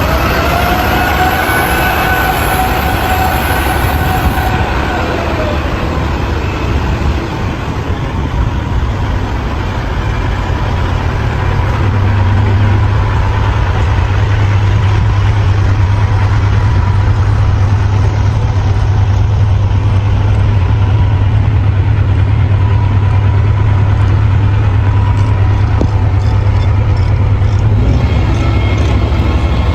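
A dump truck's engine running. A steady whine holds for the first few seconds and then fades, and from about twelve seconds in a loud, steady low hum takes over.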